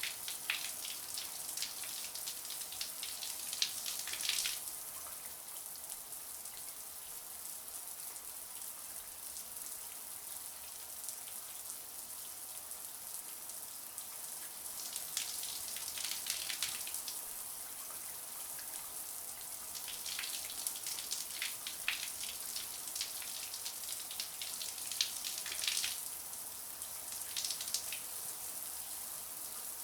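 Shower running: a steady hiss of spraying water, with spells of louder, crackly spatter in the first few seconds and again in a few stretches past the middle.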